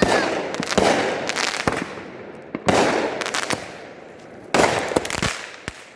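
Consumer fireworks set off close by, firing one shot after another: four loud bursts roughly every one to two seconds, each trailing off in a crackling spray.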